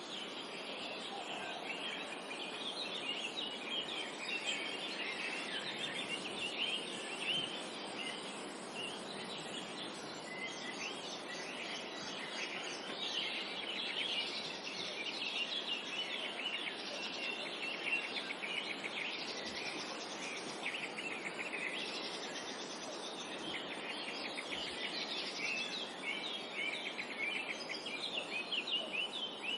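Forest songbird chorus: many birds chirping and singing at once, densely overlapping throughout, over a soft steady background noise.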